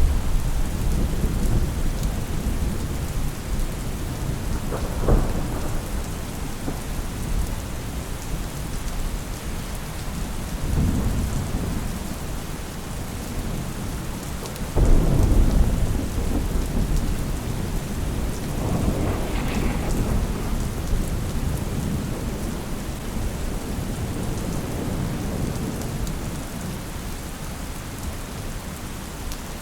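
Steady rain with repeated low rolls of thunder, several swelling and fading, the loudest about halfway through.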